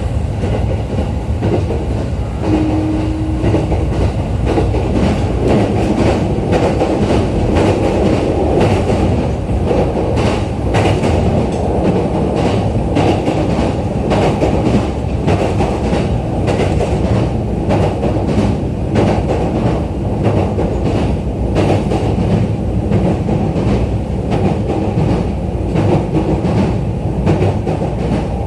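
Running noise inside a JR East E531 series electric train car: a steady rumble of wheels on rail, with frequent clicks from the track.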